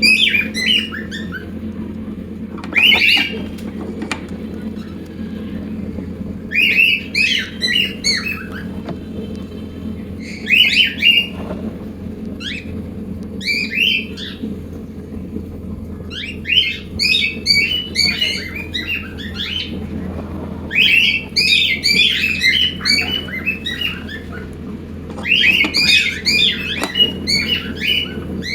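Cockatiels squawking and chirping in short repeated bursts every few seconds, coming thicker in the second half, over a steady low hum.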